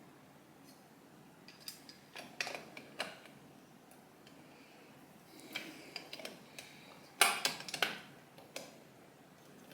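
Hard clicks and clinks of metal parts being handled and fitted while a motorcycle headlight bucket is worked into place. They come in short clusters about two, five and a half and seven seconds in, the loudest near seven seconds.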